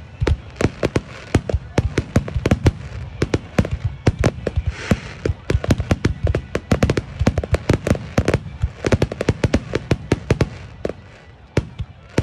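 Aerial fireworks bursting in a dense barrage, many sharp bangs a second, with a short crackling hiss about five seconds in. The bangs thin out near the end.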